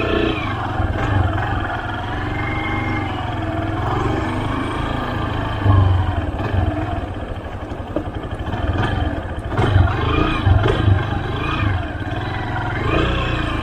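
Motorcycle engine at low speed, its revs rising and falling as the rider slips the clutch and holds a little throttle for slow-speed control, with a steady low rumble underneath.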